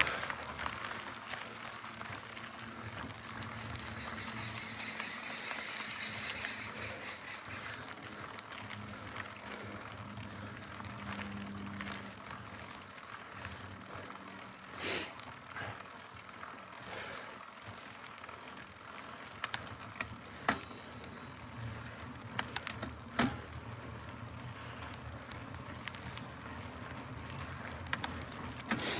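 Mountain bike being ridden along a dirt trail: continuous tyre and drivetrain noise with sharp knocks from bumps, several of them in the second half. A stretch of rapid ticking sounds a few seconds in.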